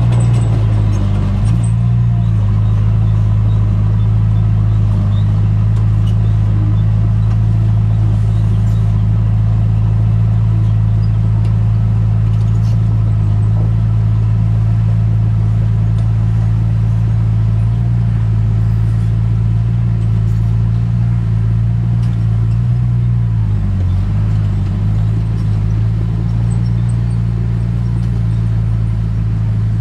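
Diesel engine of heavy earthmoving equipment running steadily under a low, even drone, its pitch dipping briefly about two-thirds of the way through before settling back.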